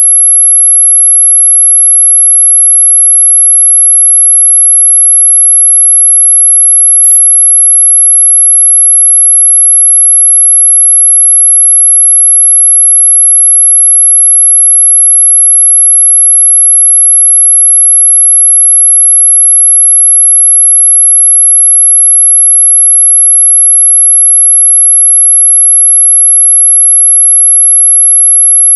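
Anti-mosquito 'ultrasonic' repellent tone: a single loud, steady, very high-pitched pure tone held without change. There is a brief click about seven seconds in.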